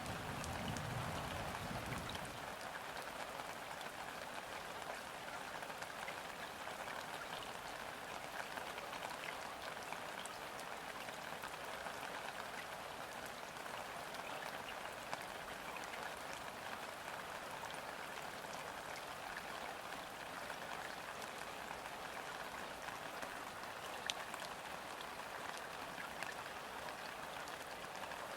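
Steady rain falling on river water, an even hiss of countless drops with scattered sharper individual drop hits. A low rumble fades out about two seconds in.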